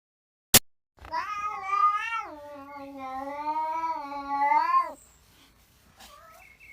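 A sharp click, then a cat's long, drawn-out yowl lasting about four seconds, wavering up and down in pitch before breaking off; a short faint cry follows near the end.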